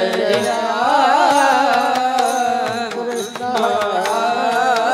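Marathi devotional bhajan: a man sings a long, wavering melismatic phrase of the chant over a steady drone, with regular hand-drum beats.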